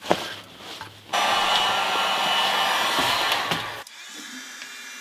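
Handheld hot-air blower warming a steel motorcycle fuel tank to melt frozen vinegar slush inside. It switches on about a second in and runs steadily with a whooshing rush and a faint whine, then drops to a lower, quieter setting near the end.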